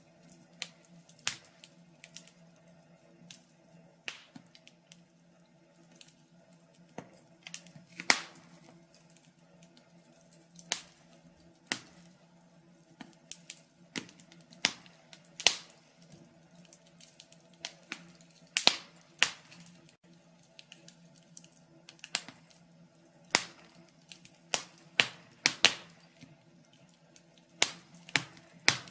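Log fire crackling: irregular sharp pops and snaps, some loud and some faint, over a faint steady low hum.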